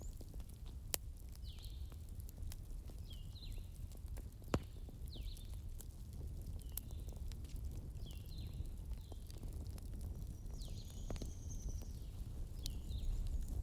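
Fireplace ambience: a steady low rumble with scattered sharp crackles. Short high chirps repeat about every two seconds over it.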